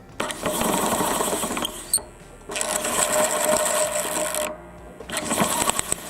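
Electric pallet truck's drive motor and reduction gearbox spinning the jacked-up drive wheel in three bursts, each with a whine and a rough mechanical rasp. The brake's splined nut is fitted the wrong way round and rubs metal on metal against its brass bushing, which loads the motor.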